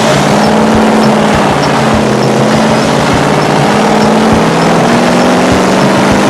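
Mercedes SL55 AMG's supercharged 5.4-litre V8 running loud and steady under load on a chassis dynamometer.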